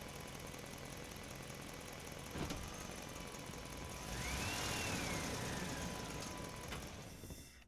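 Steady engine-like running sound, with a sharp click about two and a half seconds in and a whistle-like tone that rises and then falls over the second half; it all cuts off abruptly at the end.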